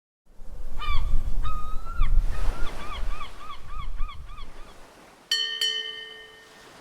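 Birds calling: two longer honking calls, then a quick run of short, rising-and-falling calls about four a second, over a low rumble. Near the end come two sharp metallic strikes that ring on with several tones and fade out.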